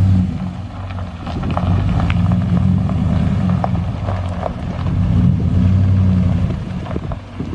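Big truck's engine running as it is driven slowly, a low drone that eases off briefly about half a second in and again near the end.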